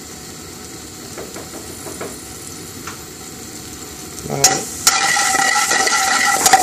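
Chopped chili and green and red peppers dropped into hot oil in an aluminium frying pan, hissing at once into a loud, steady sizzle about four seconds in. A few sharp clatters near the end as the pan is shaken on the gas burner.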